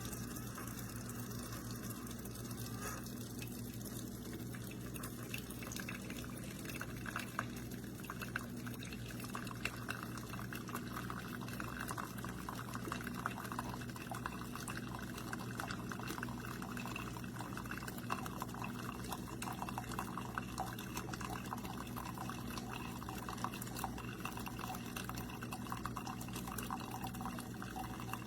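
Keurig K-Supreme pod coffee maker brewing: coffee streams and drips into a cup, growing stronger about seven seconds in, over a steady low hum.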